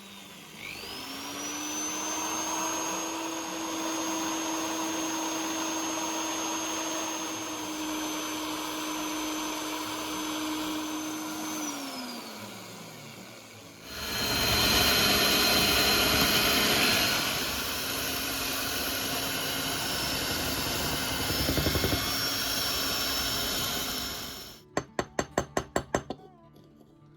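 An electric power tool's motor spins up, runs at a steady pitch for about eleven seconds and winds down; a second, louder and rougher run follows for about ten seconds. Near the end comes a quick run of about ten sharp taps.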